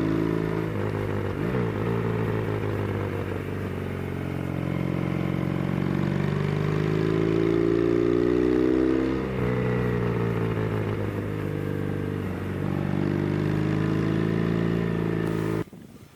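Yamaha TX750 parallel-twin engine heard from onboard, pulling uphill under load. Its pitch climbs as it revs and falls back at gear changes three times, and the sound drops off abruptly near the end.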